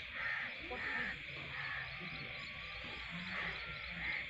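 A bird calling repeatedly, about six short calls with a longer gap in the middle, over a steady background hiss.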